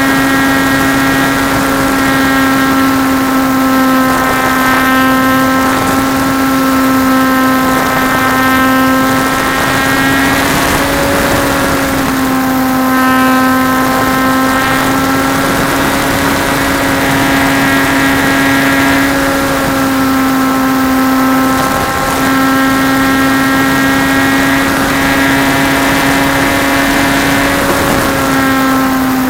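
RC model Trojan T-28's motor and propeller running in flight: a steady drone whose pitch dips and rises slightly every few seconds as the throttle and airspeed change, with air rushing over the plane-mounted microphone.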